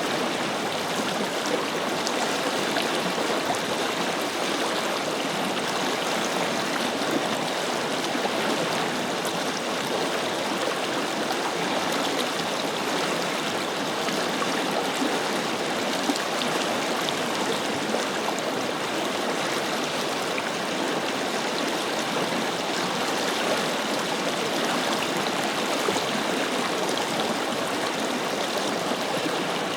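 Forest river flowing in a steady rush, with small splashes and trickles over it.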